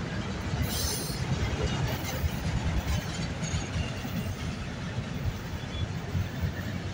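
Enclosed autorack freight cars rolling past: a steady low rumble of steel wheels on the rails, with a brief high hiss about a second in.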